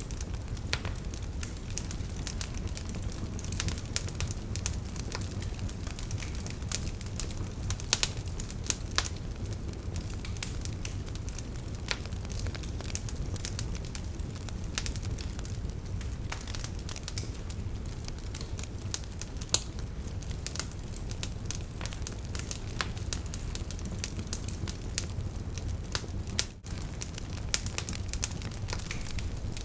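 Wood campfire burning: frequent sharp crackles and pops from the firewood over a steady low rumble of the flames.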